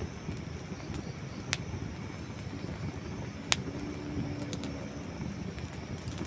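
Campfire of dry wood burning with a steady low rumble, broken by two sharp pops about two seconds apart, the second louder, then a few light snaps.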